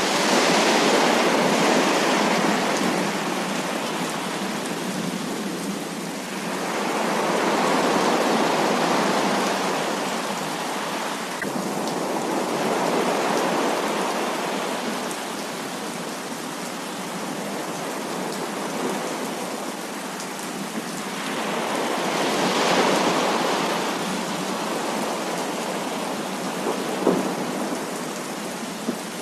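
Heavy rain pouring steadily, with thunder rolling through in several slow swells. A single sharp tick comes near the end.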